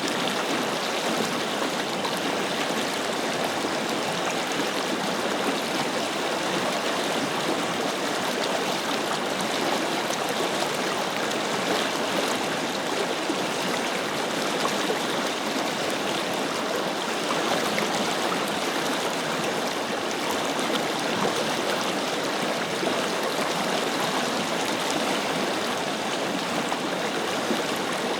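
A forest river flowing: a steady rush of water over stones with fine splashing and gurgling, even throughout.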